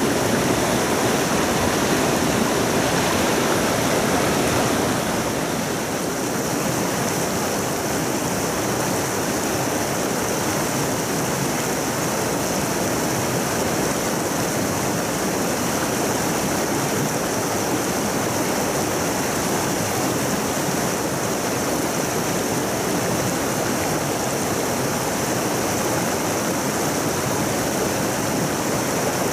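Mountain stream water rushing, a steady even hiss, a little louder for the first five seconds or so.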